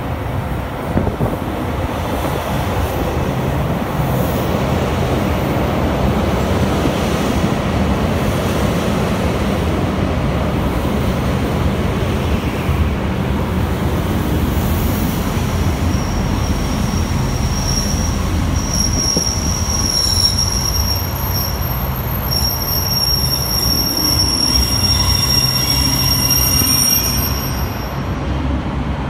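JR Hokkaido 789-series limited express electric train pulling into the platform and rolling past close by. From a little past halfway, a high, steady squeal of its brakes and wheels sets in as it slows to a stop.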